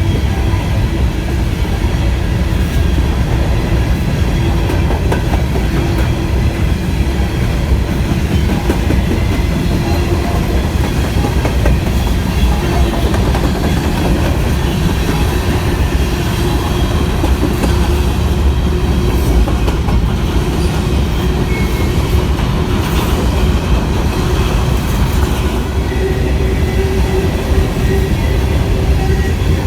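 A freight train's cars rolling past at speed, with a loud, steady sound of steel wheels running on the rails.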